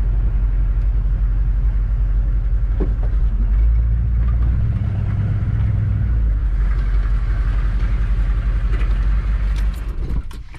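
Squarebody Chevrolet Suburban being driven, a steady low rumble of engine and road noise that dies away near the end, with a few clicks.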